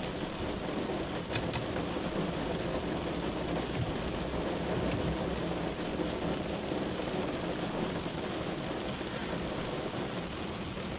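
Rain falling on the car's roof and windshield, heard from inside the cabin as a steady noise with the odd faint tap of a drop.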